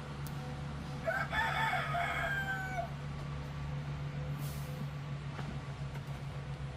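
A rooster crows once, about a second in, one call of roughly two seconds that rises and then holds, over a steady low rumble.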